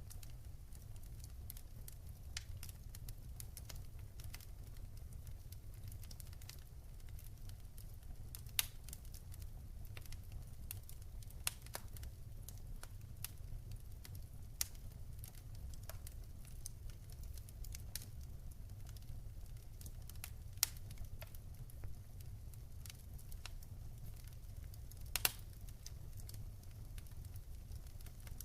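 Wood fire crackling in a fireplace: irregular small pops and snaps, with a few sharper pops standing out, over a steady low rumble.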